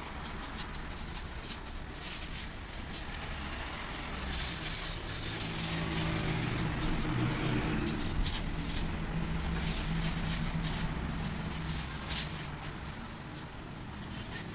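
Truck engine running steadily under a constant hiss, its low note getting firmer about a third of the way in.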